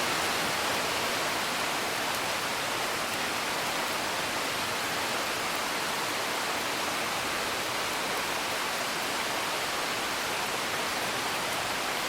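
Steady rain hiss, heard as if from indoors, mixed with sparse faint crackles of a wood fire.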